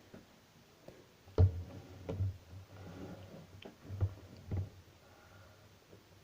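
Plastic action figures handled and set down on a hard surface: a handful of light knocks and clicks, the loudest about a second and a half in.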